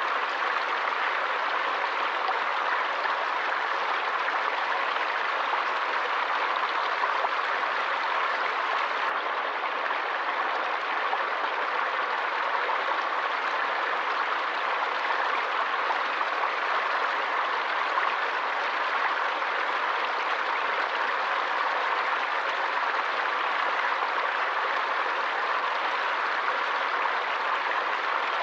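Forest stream of running water flowing steadily, an even, unbroken water noise.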